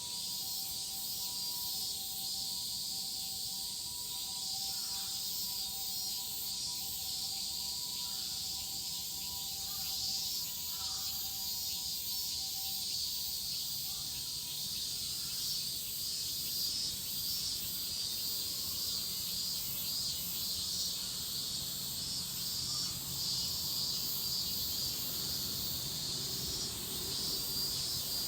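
Cicada chorus: a dense, steady, high-pitched drone, with a low steady rumble underneath and two faint steady tones through the first half.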